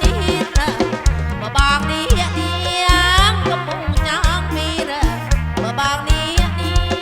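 Live kantrum band music, amplified through a PA: a wavering, sliding melody line over a stepping bass line and a steady drum beat.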